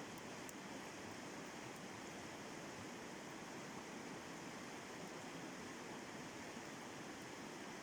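Steady rush of water over a river rapid, an even hiss with no change in level. A few faint clicks sound in the first two seconds.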